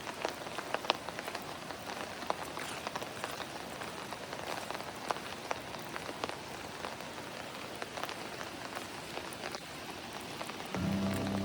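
Steady rain falling, an even hiss with many separate drop hits ticking through it. Music comes in near the end.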